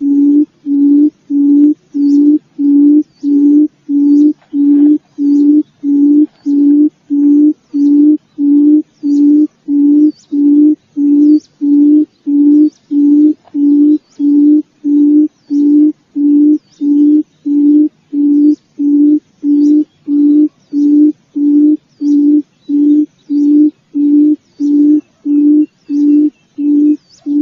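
Puyuh hutan (forest quail) call: a long, even series of short low hoots, about three every two seconds, each at the same pitch. The series cuts off abruptly at the end.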